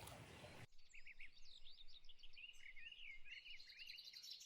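Birds singing faintly, a run of quick chirps and short warbled phrases. A steady hiss underneath cuts off suddenly under a second in.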